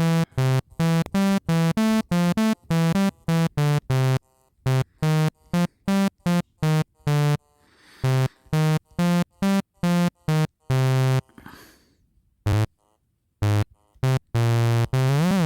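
BandLab's talkbox synth playing a run of short, choppy notes, a voice-like synthesized tone, with a few longer held notes and a note that glides in pitch near the end.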